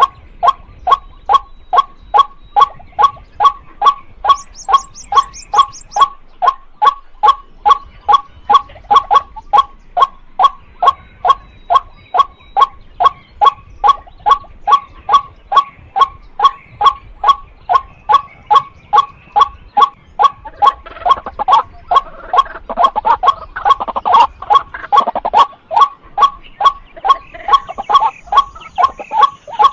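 White-breasted waterhen calling: a long, fast, even run of harsh notes, about three a second. A brief high chirp is heard about four seconds in, and a rougher overlapping call joins for a few seconds from about twenty-one seconds in.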